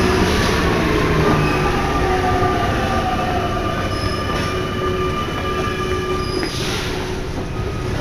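Inside an MP89CA rubber-tyred Paris Métro car while it runs, with steady rolling noise and several high steady whining and squealing tones. A motor whine slides down in pitch partway through as the train slows.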